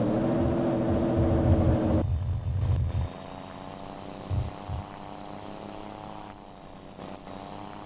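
Scania Super 540 truck's 13-litre six-cylinder engine through a straight-through exhaust, running loud and hard under throttle. About two seconds in the throttle comes off and the exhaust drops to a quieter, steady note, with a faint high whistle over it.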